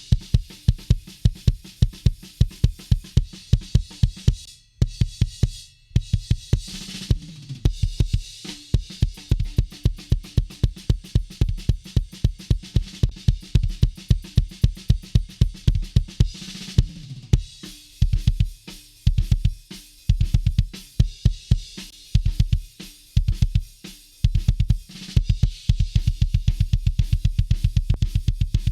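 Recorded metal drum kit playing back through a dbx 160-series compressor, with fast, even kick-drum hits under snare and cymbals. There are a few short fills and breaks, and near the end it moves into a denser, rapid double-kick run.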